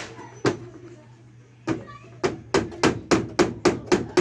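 Hammer blows: two single strikes near the start, another a little later, then from about two seconds in a quick, even run of strikes, about three or four a second.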